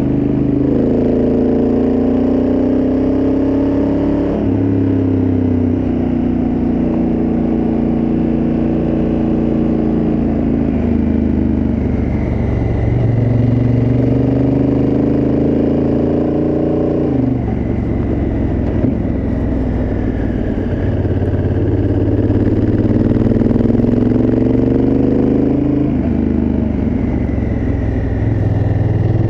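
Honda Africa Twin CRF1000L's parallel-twin engine through its stock exhaust under way. The revs climb and fall back several times, dropping sharply about 4, 17 and 26 seconds in.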